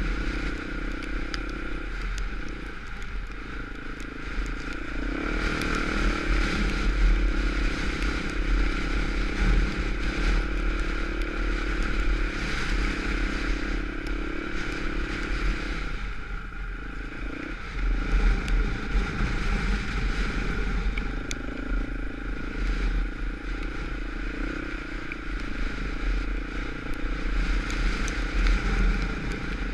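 Off-road dirt bike engine running steadily while riding, with the engine note easing off briefly twice as the throttle is rolled back.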